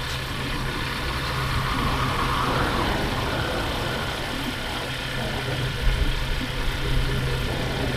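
Motorbike engine running at a steady hum while riding, under continuous wind and road noise, with a brief swell of hiss about two to three seconds in.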